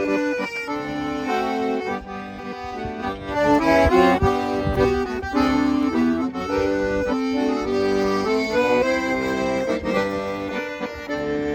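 An accordion playing a melody over held chords, loudest about four seconds in.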